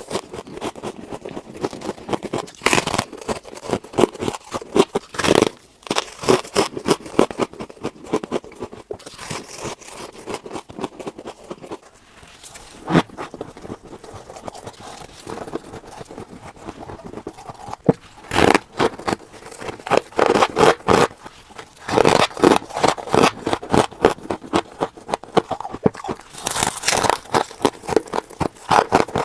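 Close-up crunching of scraped refrigerator frost ice being bitten and chewed: dense crackly crunches and scrapes, busier in the second half, with a short lull near the middle.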